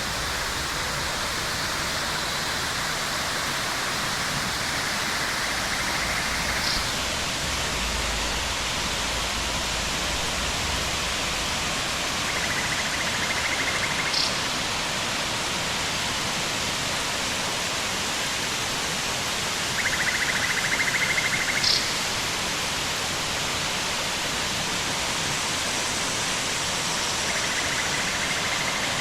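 Steady, even rush of a waterfall. A short buzzing sound recurs about every seven seconds, each time ending in a brief high click.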